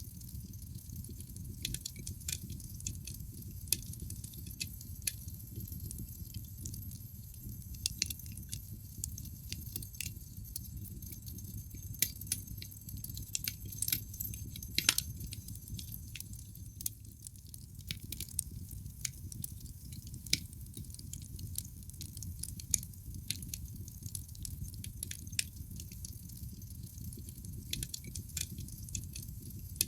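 Wood fire burning in a fireplace: a steady low rumble of the flames with irregular sharp crackles and pops from the burning logs, a cluster of louder pops about halfway through.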